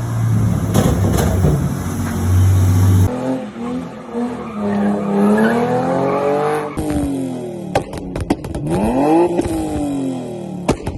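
A car being driven hard: a steady engine drone, then pitch sweeps that rise and fall over a second or two each, as in engine revving and tyre squeal, with a few sharp clicks in between.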